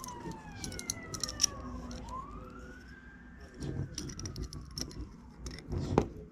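A siren wailing, its pitch gliding down, then rising slowly and sinking away again, under light clicks and taps from small parts being handled.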